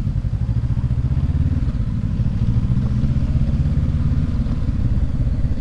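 Motorcycle engine, heard from on the bike, running steadily at low road speed; most likely the rider's own 2019 Honda CB500X parallel twin.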